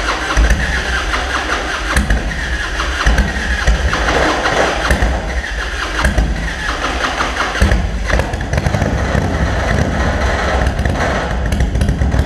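Harley-Davidson FXR's freshly rebuilt Evolution 1340 V-twin running loudly with an uneven low beat. This is its first run after a rebore with new piston rings and new big-end and little-end bearings.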